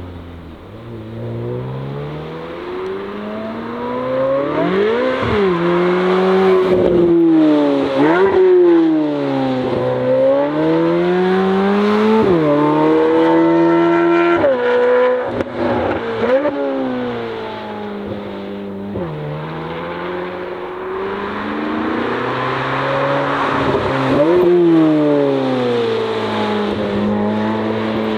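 C8 Corvette Z06's flat-plane-crank V8 breathing through an AWE exhaust, driven hard on track. The revs climb and fall again and again, with quick sharp jumps in pitch every few seconds as it shifts gears.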